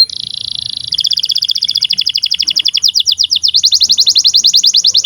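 Canary singing a long, fast trill of repeated high notes, switching to a different note type about a second in and again about three seconds in.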